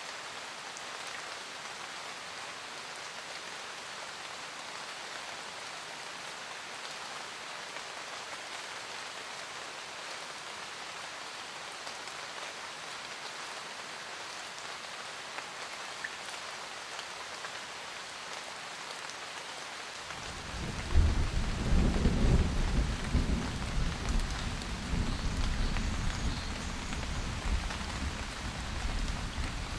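Steady rain pattering, with a loud thunder rumble breaking in about two-thirds of the way through and rolling on, slowly fading.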